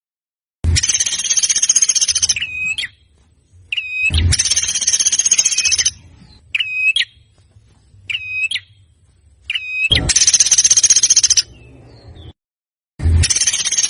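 A songbird's recorded song used as training material for competition birds. Harsh, rapid rattling phrases about a second and a half long alternate with short, sharp pitched notes, and the pattern repeats about four times.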